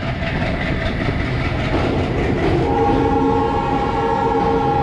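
Train running with a steady wheel-on-rail rumble and faint clatter. About two and a half seconds in, a locomotive horn starts: a steady chord of several tones that is held on.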